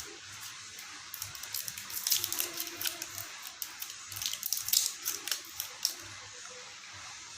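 Plastic packaging and small parts being handled: a run of quick crinkles and light clicks over a faint steady hiss, easing off near the end.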